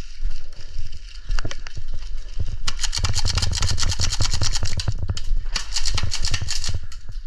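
Airsoft gun firing two long bursts of rapid full-auto shots, the first a little under three seconds in and the second about half a second after it ends, with a few single clicks before them.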